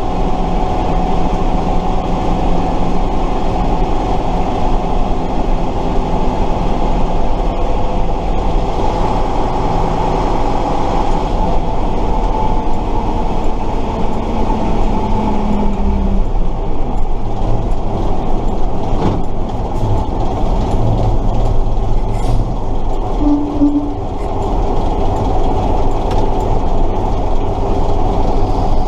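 Tatra 138 fire truck's air-cooled V8 diesel running under way, heard from inside the cab along with drivetrain whine and rattle. The engine note shifts several times as the truck is driven.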